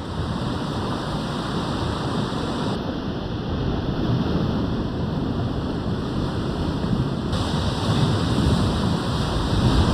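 Steady rushing of ocean surf on the shore, with some wind.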